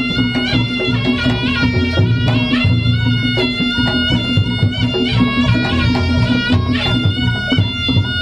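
Reog Ponorogo gamelan music: a reedy shawm-like wind instrument, the slompret, plays a changing melody over drum and gong strikes and a steady low tone.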